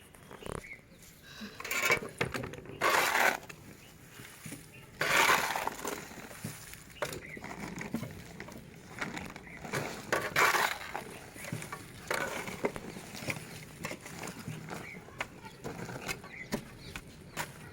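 Soil and compost being scooped and mixed by hand in a pot: irregular crunching and scraping, in short bursts with brief pauses between.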